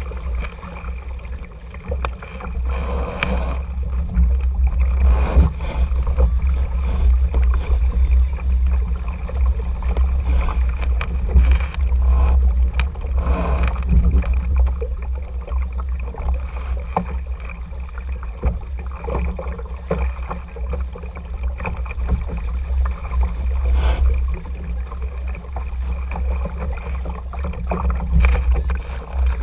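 RS Tera sailing dinghy underway: a steady low rumble of wind and water on the camera, with water rushing and splashing along the hull and occasional sharp knocks.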